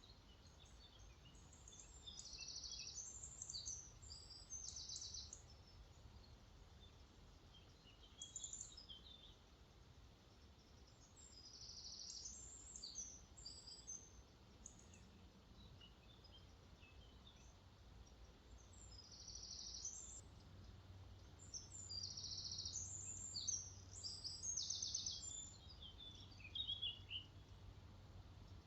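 Songbirds singing in short, high phrases every few seconds, with louder bouts near the start and in the last third. Underneath is a faint, steady low rush of lake water flowing out into a river.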